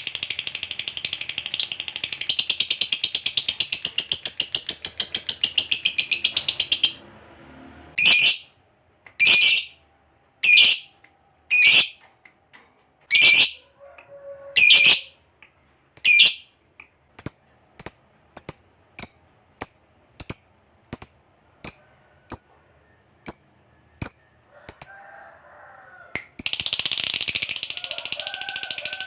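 Lovebird chattering in a long, rapid, high-pitched trill (the "ngekek panjang"). About 7 s in it breaks into single sharp shrieks more than a second apart, then quicker short chirps, and near the end the long rapid trill starts again.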